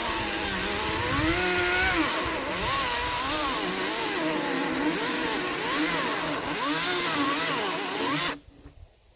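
Greenworks 40-volt battery chainsaw cutting pine logs, its motor pitch rising and falling as the chain bites and is eased through the wood. It stops abruptly near the end.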